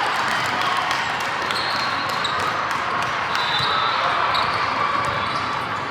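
Basketball game in a gym: a ball bouncing on the court with sharp knocks, several short high squeaks, and steady spectator chatter.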